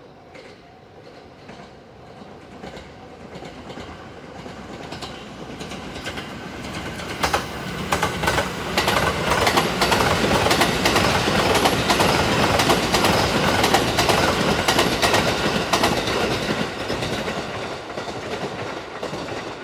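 Sunrise Seto sleeper train, a 285 series electric multiple unit, passing through a station without stopping, its wheels clacking rhythmically over the rail joints. The sound swells as the train approaches, is loudest in the middle and fades as it runs off.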